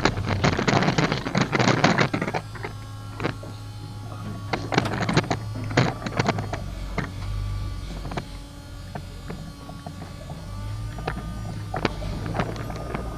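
A motor hums steadily, with bursts of rattling clatter at the start, again around the middle, and near the end.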